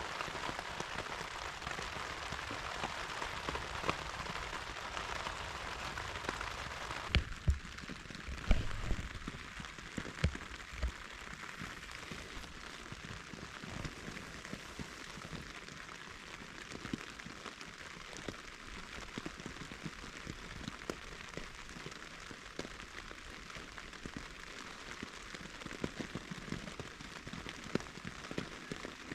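Rain falling on the tent's fabric, heard from inside the tent: a steady hiss made of countless separate drop hits. It gets a little quieter about seven seconds in, with a few dull thumps between about seven and eleven seconds in.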